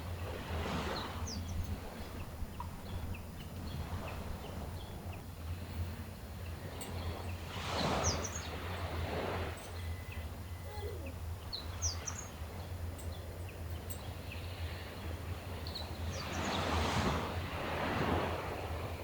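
Gentle waves of the Sea of Japan breaking and washing ashore, swelling three times (about a second in, about eight seconds in, and near the end), over a steady low rumble. Short, high bird chirps are scattered throughout.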